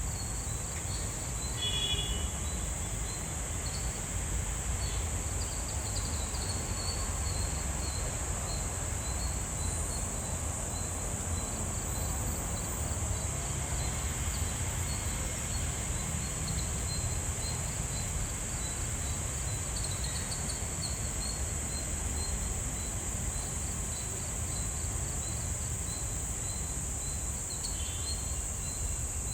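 Steady high-pitched drone of insects, with short faint bird chirps now and then and a low rumble underneath.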